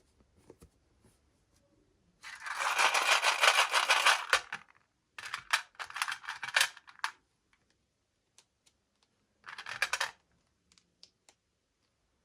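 Plastic packaging crinkling and rustling as it is handled and opened, in three bursts, with a few small clicks between them.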